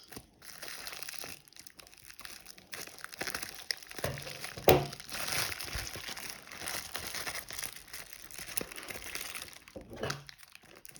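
Plastic packaging crinkling and rustling as it is handled and worked open, with one sharp snap a little before halfway.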